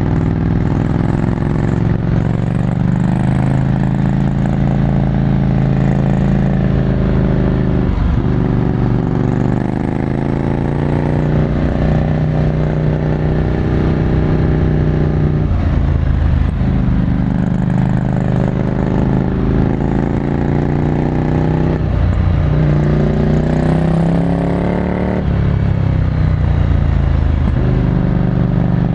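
Ducati Scrambler Desert Sled's air-cooled 803 cc L-twin running through a full Termignoni exhaust under way, heard onboard. Its pitch falls away and picks up again several times as the throttle is closed and reopened or the gears change.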